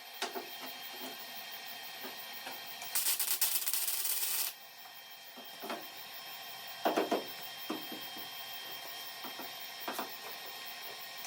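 A welder lays one short stitch weld on a steel car quarter panel: a crackling, sizzling burst about three seconds in that lasts about a second and a half. The weld is kept short to limit heat in the panel. Light clicks and knocks of handling the torch and panel come before and after.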